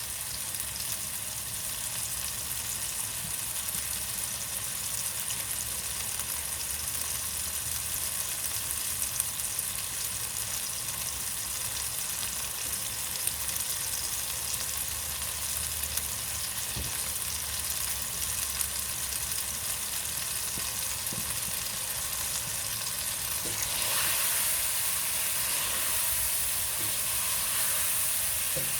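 Chicken pieces and ground spice masala frying in oil in a pan, with a steady sizzle, while the masala is sautéed on medium heat. The sizzle grows a little louder about three quarters of the way through.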